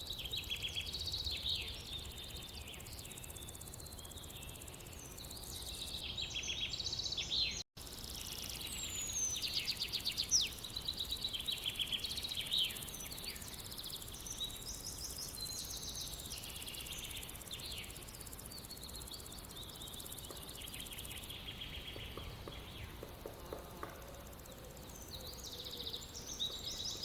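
Birds singing at dawn, many short chirps and quick trills overlapping, over a faint low rumble; the sound cuts out for a split second about eight seconds in.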